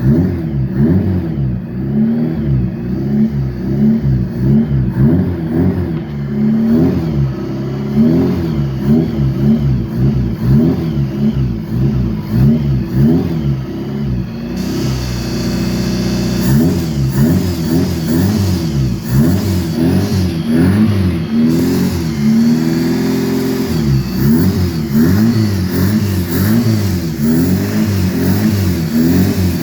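Toyota 4K four-cylinder engine running and being revved up and down over and over in quick blips. It holds at a steady speed for a moment about halfway through.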